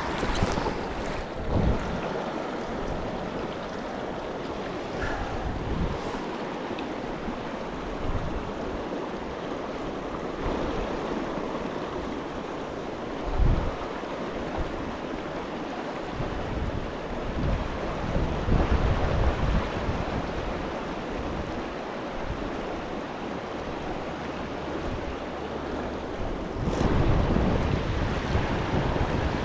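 Steady rush of a mountain creek, with gusts of wind buffeting the microphone in low rumbles, one sharp buffet about thirteen seconds in and stronger gusting near the end.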